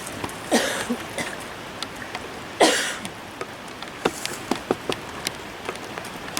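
Steady rushing of a creek under scattered crunches and snaps of footsteps on the forest floor. Two short breathy vocal sounds, falling in pitch, half a second in and again about two and a half seconds in.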